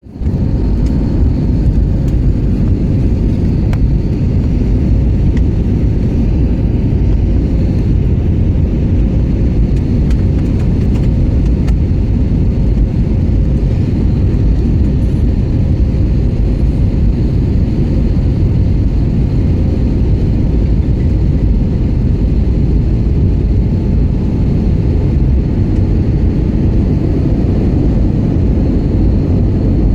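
Steady low rumble of an airliner cabin during landing: engine and airflow noise, with a faint steady whine over it and a few light clicks.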